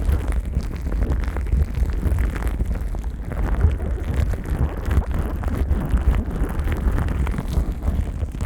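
Plastic cling wrap covering a KU100 dummy-head microphone being rubbed and crinkled by rubber-gloved hands. It makes a continuous close crackling with a heavy low rumble of handling noise on the microphone.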